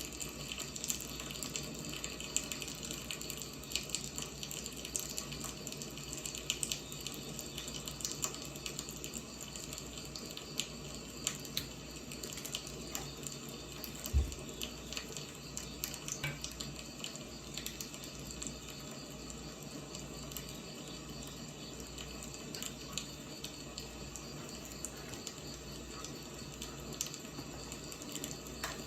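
Firewood fire burning with a steady hiss and irregular crackling, snapping pops, one louder pop about halfway through.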